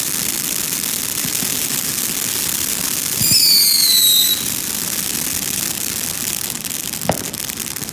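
Fireworks crackling steadily, with a whistling firework's shrill whistle sliding slightly down in pitch for about a second, a little after three seconds in. A single sharp bang comes near the end.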